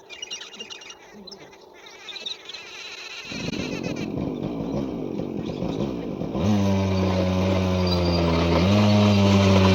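A motorcycle engine running loudly from about three seconds in. About six seconds in, music with held low notes comes in over it.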